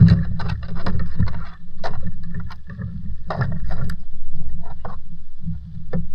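Water sloshing and splashing with a low churning rumble in uneven swells, and scattered small splashes and drips, as water is worked through by hand or by a paddle while traps are checked.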